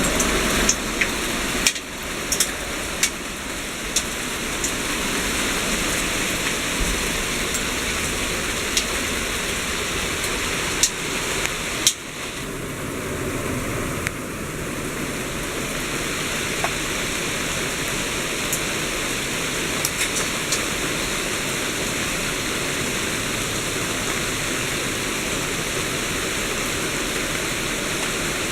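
Heavy pea-size hail pelting down in a dense, steady hiss, with sharp clicks of individual hailstones striking close by.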